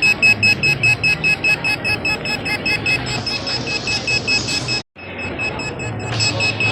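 Restaurant guest pager beeping and buzzing in rapid pulses, about five a second, signalling that the order is ready.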